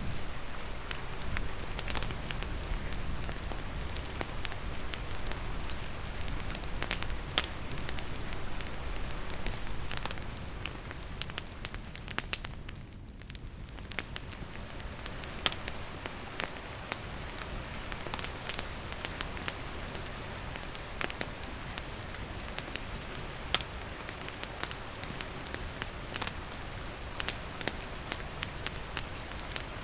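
Steady rain falling, with a wood campfire crackling: scattered sharp pops and snaps over the even hiss of the rain. The rain briefly thins near the middle.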